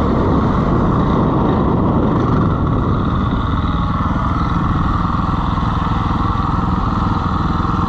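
Dirt bike engine running continuously under way, its note holding fairly steady, with a thick rush of noise over it.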